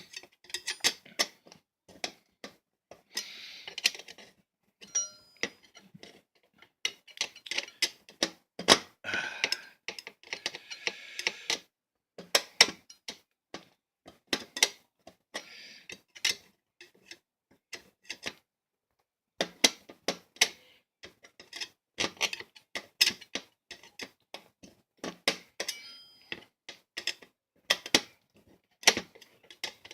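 Butter knife used as a screwdriver, clicking and scraping against a tight screw in a box fan's lid as it is forced round: irregular metallic ticks with short scraping bursts, pausing briefly about two-thirds of the way through.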